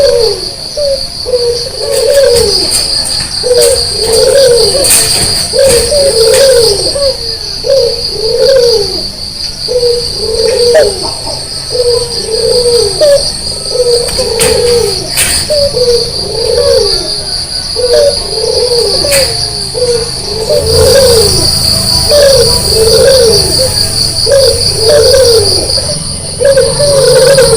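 White barbary dove (puter) cooing over and over, short coos about once a second without a break, over a steady high trill of crickets.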